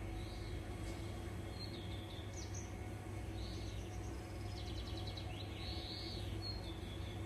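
Birds calling in a garden: scattered short arching notes and a quick trill about five seconds in, over a steady low background hum.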